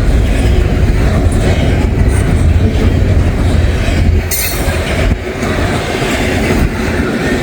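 Intermodal freight train cars rolling past: a steady rumble and clatter of wheels on rail, with a brief high wheel squeal about four seconds in.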